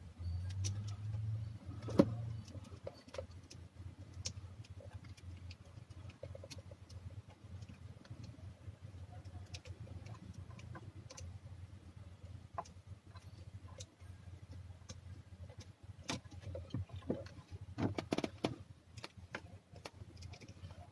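Scattered small clicks and knocks of hand tools and fittings during work on a BMW E46's fuel line, where a one-way valve is being fitted and tightened, over a steady low hum. A single sharp click comes about two seconds in, and a cluster of knocks comes near the end.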